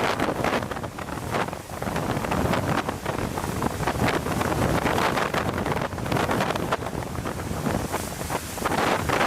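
Strong gusting wind buffeting the microphone, a steady rushing noise that swells and dips with the gusts.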